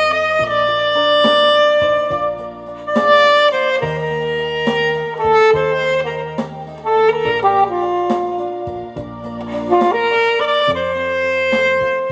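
Alto saxophone playing a slow song melody in sustained notes over an accompaniment with a steady bass line.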